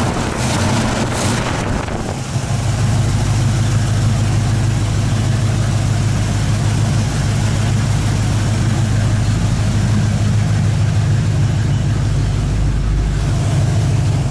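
1967 Chevy Nova's carbureted V8, fitted with a mild Howards hydraulic roller cam, roller-tipped rockers and new valve springs, running. It runs a little higher for the first couple of seconds, then settles into a steady, loud idle, and stops abruptly at the very end.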